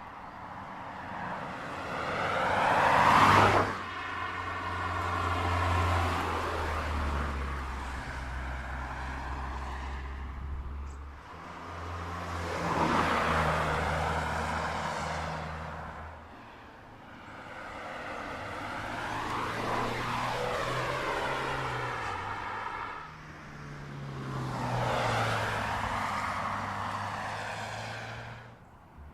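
Mazda 2 supermini driving past several times. Each pass swells and fades as engine hum and tyre noise, and the loudest, closest pass comes about three seconds in.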